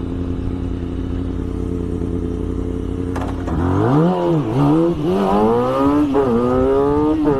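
An engine running at a steady idle, then revved up and down several times, its pitch climbing higher with each blip toward the end.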